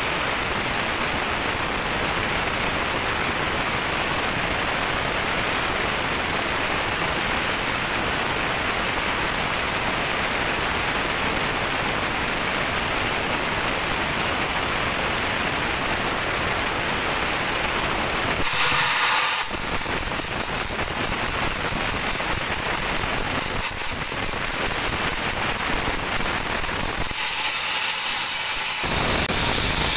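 Band sawmill cutting through a teak log: a steady, loud, noisy hiss of blade and machine. Twice the low rumble drops out for a second or two, leaving a thinner, higher hiss.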